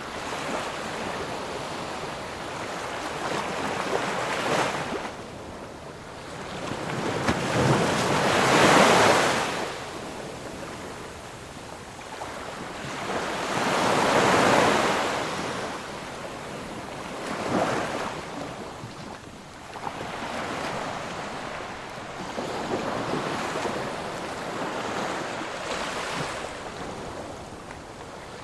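Ocean surf: waves breaking and washing in, the rushing noise swelling and fading every few seconds, with the loudest waves about nine and fourteen seconds in.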